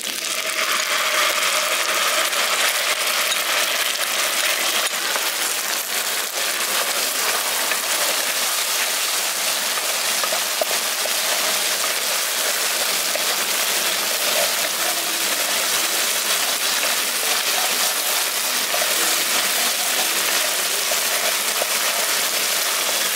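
Onion paste and poppy-seed, melon-seed and raisin paste sizzling steadily in hot oil in a pan as they are sautéed.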